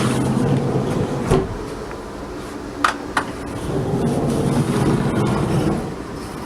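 Steady hum inside a Class 450 Desiro electric multiple unit, rising and falling in level, with a knock about a second in and two sharp clicks close together about three seconds in.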